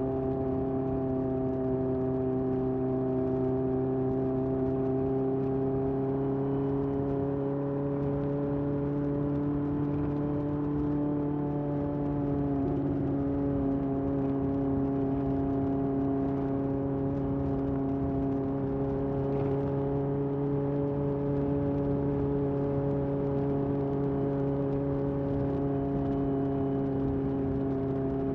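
1981 Honda CB750F's air-cooled inline four through a period Yoshimura exhaust, cruising at a steady engine speed. Its note rises slightly over the first ten seconds, dips briefly about twelve seconds in, then holds even.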